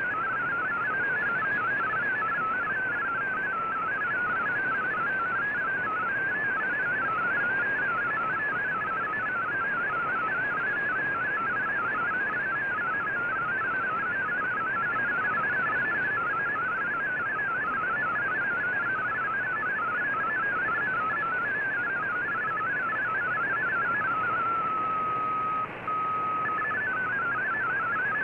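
MFSK digital data signal received on a shortwave radio: a fast, warbling run of hopping tones over steady receiver hiss. Near the end the hopping gives way to a single steady tone, which breaks off briefly before the hopping resumes.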